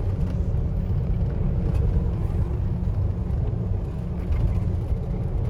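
Car driving, a steady low rumble heard from inside the cabin.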